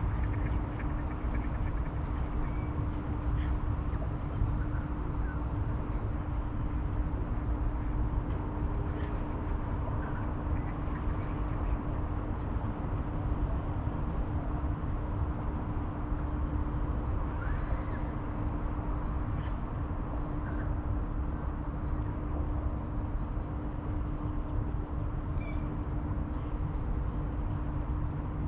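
Outdoor riverside ambience: a steady low rumble with a constant hum, and short faint bird calls now and then.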